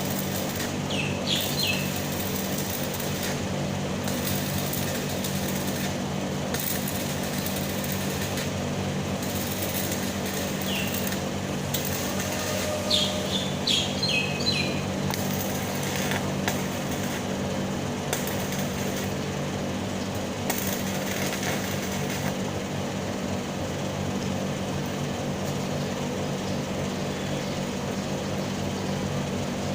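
Stick welding: the electrode arc crackling and hissing steadily over a low, even machine hum.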